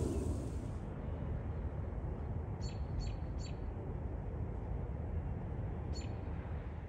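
A bird gives three quick, high, falling chirps about three seconds in and one more near the end, over a steady low rumble.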